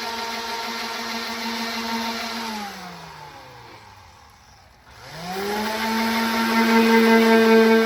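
Electric orbital sander running at a steady pitch, then spinning down about two and a half seconds in as it is switched off, and winding back up to full speed when it is switched on again a couple of seconds later.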